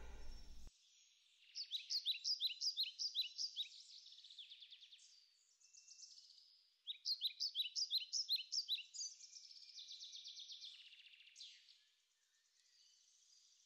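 A songbird singing two bursts of quick, repeated high chirps several seconds apart, each trailing off into softer notes. Music fades out just before the first burst.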